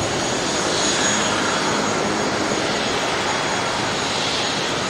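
Jet airliner's engines running, a steady, even rush of noise with a faint high whine.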